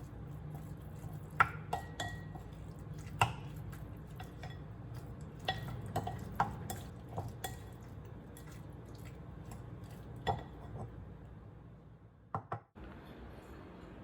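Dishes and cutlery clinking and tapping, a dozen or so scattered knocks, a few ringing briefly.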